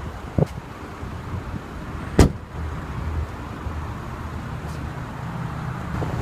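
Rear seatback release of a 2014 Mercedes-Benz C350 sedan being worked from the trunk: a small click, then a sharp knock about two seconds in as the latch lets go and the seatback drops. A low steady background hum runs underneath.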